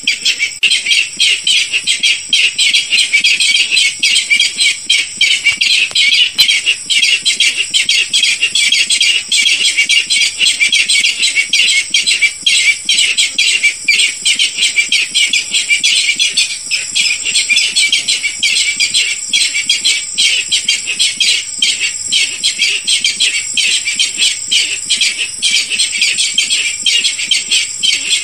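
Barred rail (Hypotaenidia torquata) calling in a continuous run of rapid, high notes, a recording used as a hunters' lure call.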